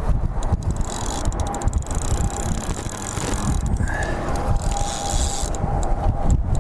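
Wind buffeting the microphone in a steady low rumble, with a spinning fishing reel being cranked: two spells of rapid fine clicking from the reel.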